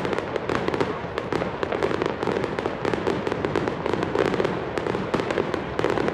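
Aerial fireworks going off in a rapid, continuous barrage: many overlapping sharp bangs and crackles, with no pause.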